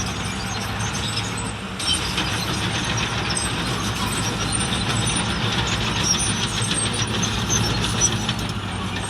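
Heavy diesel construction machinery running steadily, with a harsher clatter coming in about two seconds in.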